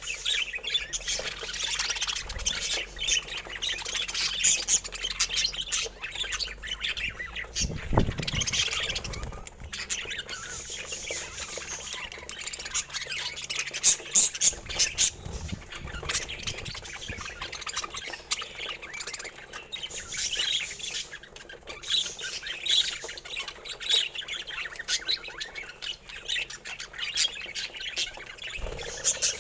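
Budgerigars chattering, with rapid chirps, squawks and warbling, plus a brief low thump about eight seconds in.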